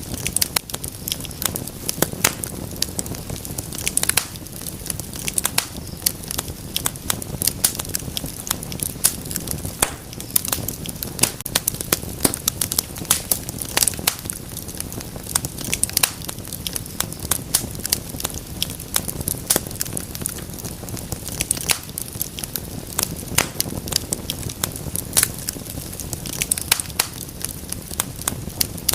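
Wood fire crackling: dense, irregular sharp pops and snaps over a low steady rumble of burning.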